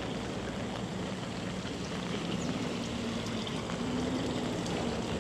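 Steady rushing of a rain-swollen river flowing fast. A faint low hum sits under it partway through.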